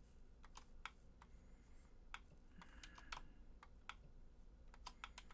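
Faint, irregular clicking of computer keys: a dozen or so keystrokes spaced unevenly, some in quick pairs.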